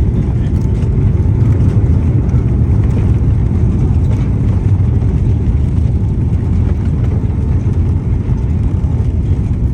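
Boeing 757 cabin noise during landing: a loud, steady low rumble of the engines and airflow.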